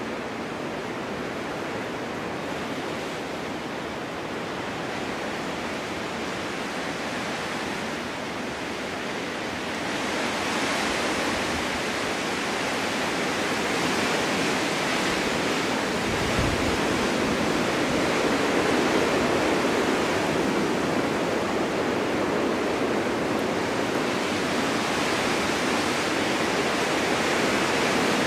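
Snowstorm wind blowing steadily as a dense rushing hiss, swelling louder about a third of the way in, with a brief low bump near the middle.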